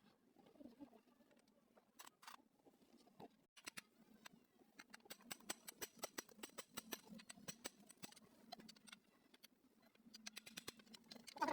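Near silence broken by many faint, scattered clicks and light taps, coming thickest in the middle of the stretch.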